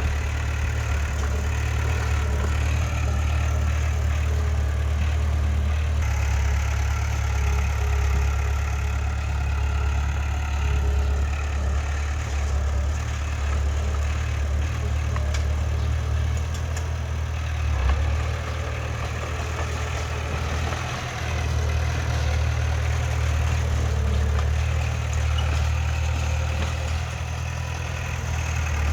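Heavy diesel engine of earthmoving machinery running steadily with a deep, low drone, with a brief knock or jolt a little past the halfway point.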